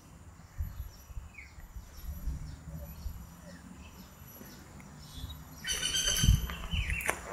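Birds chirping: a run of faint quick chirps, then a louder, longer call from about six seconds in. Low rumbling bumps sound underneath.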